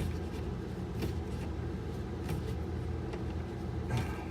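Steady low mechanical rumble, with a few light clicks and knocks as a loose plumbing fitting is tightened by hand.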